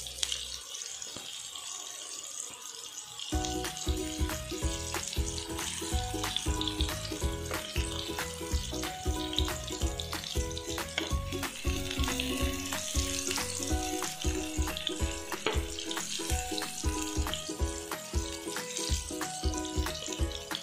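Stuffed okra sizzling in a little oil, shallow-frying on a low flame. About three seconds in, background music with a steady beat comes in over the sizzle and stays the louder sound.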